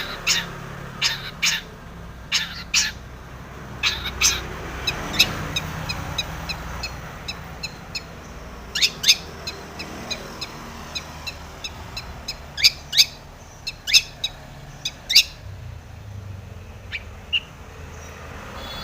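Long-tailed shrike (cendet) calling: a series of short, harsh, sharp notes, some sliding quickly downward, in irregular clusters, busiest in the first few seconds and again from about nine to fifteen seconds in.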